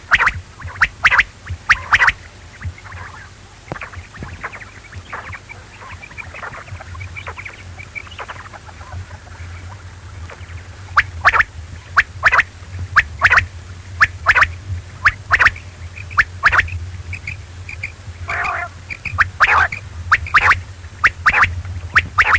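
Quail calling: short, sharp calls repeated in quick series, sparse for a few seconds and then dense again, over a steady low hum.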